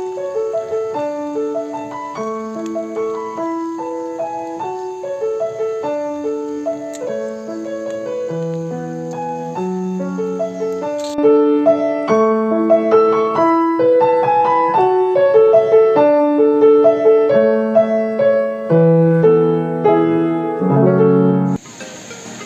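Background piano music: a slow melody of held notes that grows louder about halfway through and stops shortly before the end, followed by a brief burst of noise.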